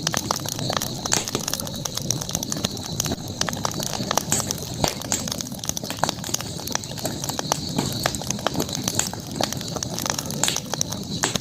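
Campfire crackling, with frequent irregular sharp pops and snaps over a steady hiss, and a constant high-pitched drone underneath.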